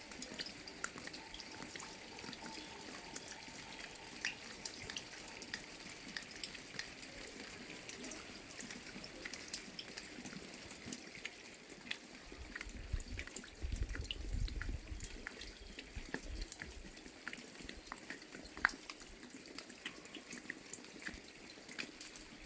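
Light rain, with many scattered drops tapping close by, as on an umbrella. Low rumbles come and go from about twelve to sixteen seconds in.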